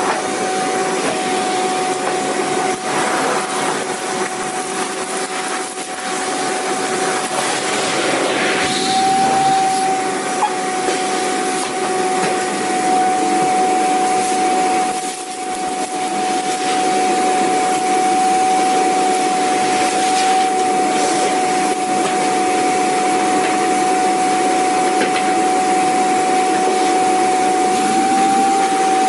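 Vacuum cleaner running steadily: an even rushing noise with a constant high whine. The level dips briefly about halfway through.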